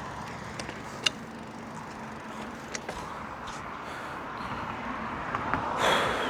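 Road traffic with a car passing, its noise swelling near the end, and a few sharp clicks, the loudest about a second in.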